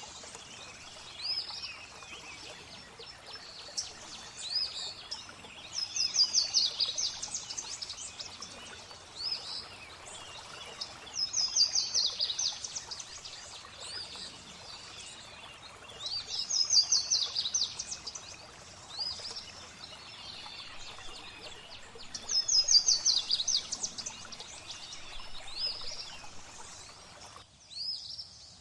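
Songbird singing over steadily flowing water: a loud phrase of rapid high notes that slide downward recurs four times, about every five to six seconds, with short single chirps between. The water sound drops out about a second before the end.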